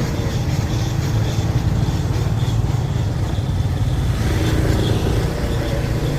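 Motorbike running on the road, a steady low rumble with no break.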